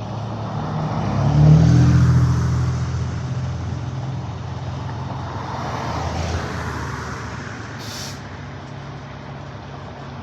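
A heavy vehicle's engine running steadily close by, swelling louder about a second and a half in and then easing off, with a short hiss near the end.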